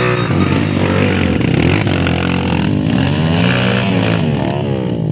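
Underbone motorcycle engine being revved through its exhaust, its pitch rising and falling several times, most clearly in the second half.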